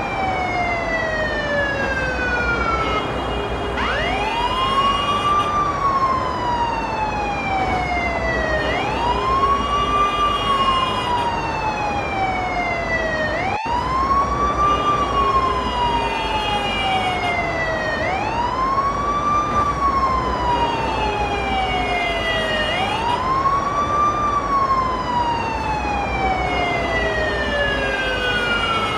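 Ambulance siren wailing. Each cycle climbs quickly in pitch, then falls slowly, repeating about every four and a half seconds, with a momentary dropout about halfway through.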